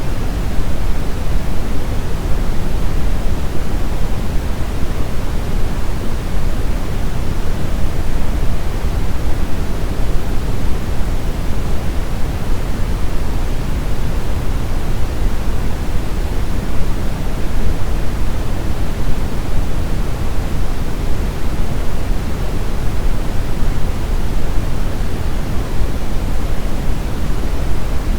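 Synthetic brown noise: a steady, even rumbling hiss with most of its weight in the low frequencies, unchanging throughout.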